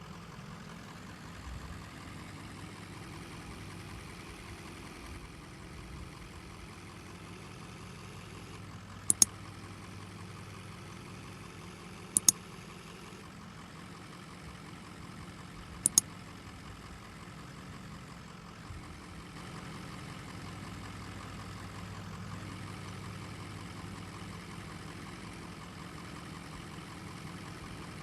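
Diesel engine of heavy earthmoving equipment, an excavator or dump truck, running steadily at idle. Three short, sharp double clicks stand out in the middle.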